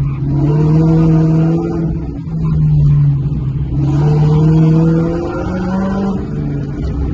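Car engine running loudly, its pitch holding for about a second at a time and then stepping up or down, several times over.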